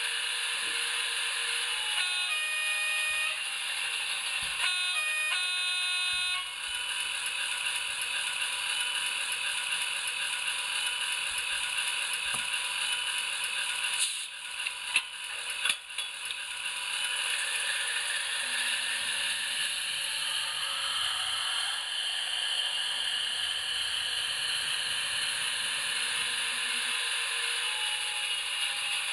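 HO-scale model diesel locomotive's sound decoder playing a running diesel engine through its small onboard speaker, thin and without bass. Two runs of short stepped notes come in the first few seconds, and a few sharp clicks come around the middle.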